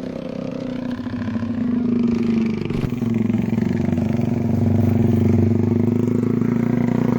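A motor vehicle engine running steadily, growing louder over the first couple of seconds and then holding.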